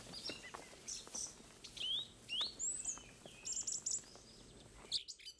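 Wild birds chirping and calling in the trees: scattered short chirps, a few rising whistled notes and a quick run of high notes, over faint outdoor hiss. The background cuts off abruptly shortly before the end.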